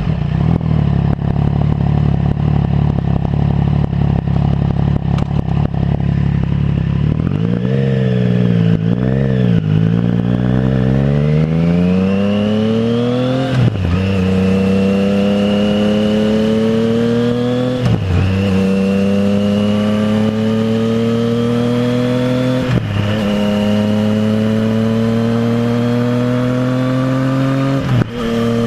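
Triumph Trident 660's inline three-cylinder engine through a full Zard exhaust: idling steadily, then revving up and down for a few seconds. It then accelerates hard through the gears, the pitch climbing steadily and dropping sharply at each of four upshifts.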